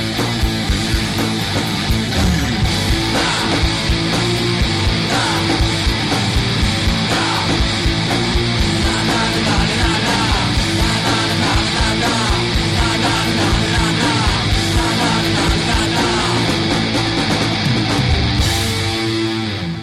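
Loud instrumental rock track, punk or heavy-metal style, with distorted electric guitar over a steady driving drum beat, with no singing; it starts to fade right at the end.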